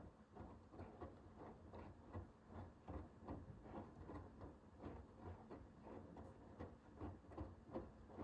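Hoover H-WASH 500 washing machine in its wash phase: the drum turns with wet laundry tumbling inside. It is heard as faint, irregular soft knocks and patters several times a second over a low hum.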